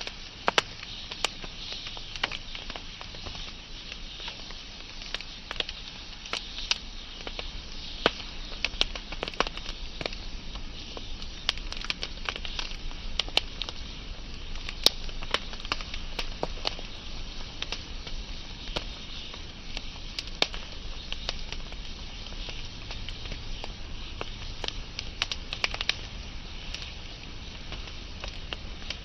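Wood fire burning, crackling steadily with frequent sharp pops at irregular intervals over a low hiss and rumble.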